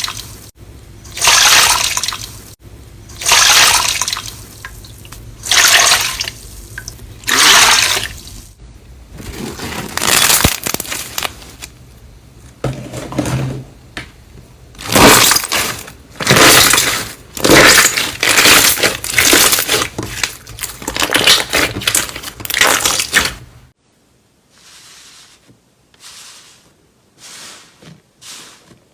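Slime being squeezed and pressed by hand, a series of wet squishes: at first one about every second and a half, then quicker and more continuous. About 24 s in, the sound drops to softer, quieter squishing.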